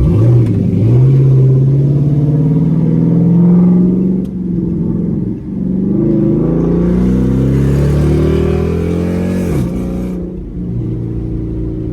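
C7 Corvette's V8 through a freshly modified exhaust, revving up under hard acceleration in two long pulls, the pitch climbing each time. Near the end it drops off sharply as the throttle lifts and settles to a steady lower note.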